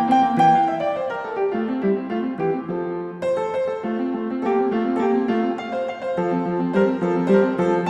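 Background music: piano playing a steady pattern of repeated notes.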